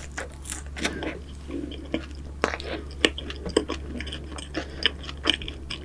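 Close-miked chewing of cruffin and financier pastries: a dense, irregular run of sticky mouth clicks with some light crunching.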